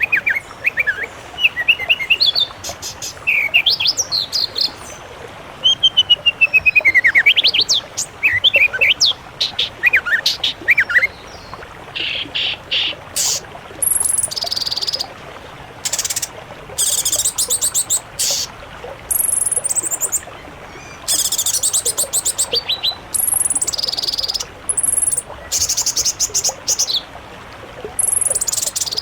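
Songbirds singing. For about the first eleven seconds there are varied, gliding whistled phrases. After that come short, rapid, high trills repeated every second or two.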